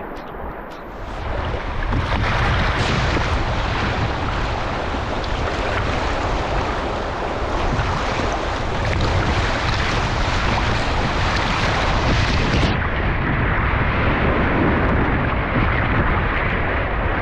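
Wind buffeting the microphone over a steady rush of rain and moving river water, getting louder about a second in.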